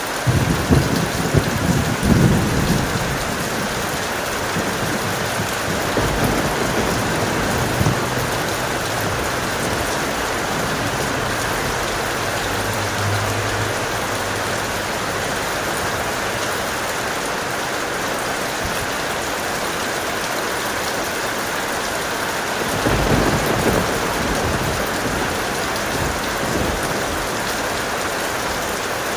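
Heavy rain falling steadily with thunder rumbling low, once in the first few seconds and again about two-thirds of the way through.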